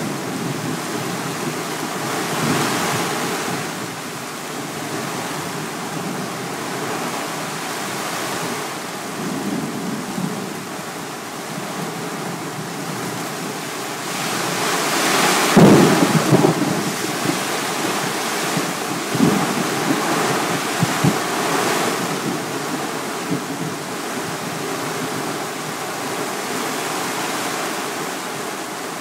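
Thunderstorm with steady heavy rain and wind, and a loud clap of thunder with a deep rumble about halfway through, followed by a few shorter cracks.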